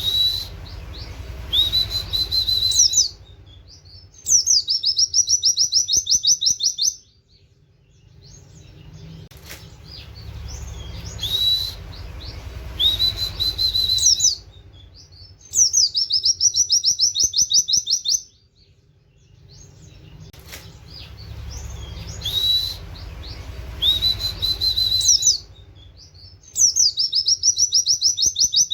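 Oriental white-eye (pleci) song in rapid 'nembak' style: a whistle that rises and levels off into a held note, then a fast high trill lasting a few seconds. The same sequence repeats about every eleven seconds, as in a looped songbird tutoring (masteran) recording, with a low rumble underneath part of each cycle.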